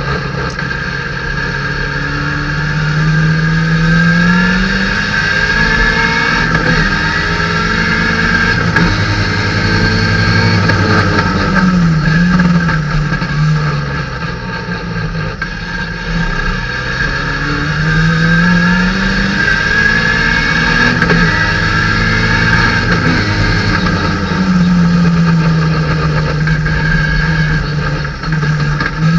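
Datsun 510 race car's engine at racing speed, heard from inside the cabin, its revs repeatedly climbing and then dropping back through the corners.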